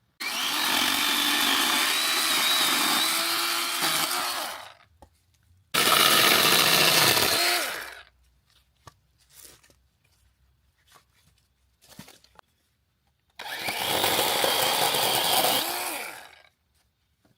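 Chainsaw cutting firewood in three runs of a few seconds each, with its pitch wavering as it cuts. Between the runs there is near silence and a few light knocks.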